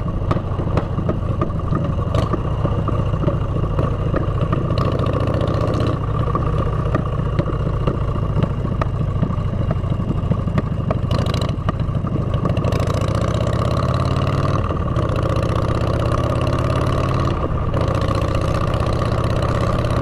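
Motorcycle with aftermarket exhaust pipes running on the road, its engine pitch climbing several times as it accelerates.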